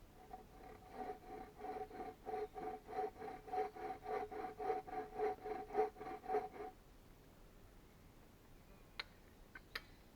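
Hand saw cutting wood in quick, even strokes, about three a second, with the blade ringing at a steady pitch; the sawing stops about two thirds of the way through, followed by two sharp clicks near the end.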